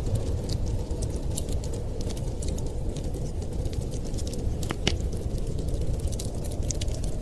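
Wood fire crackling in a fireplace: irregular sharp pops and snaps over a steady low rumble, with one louder, briefly ringing pop a little before five seconds in.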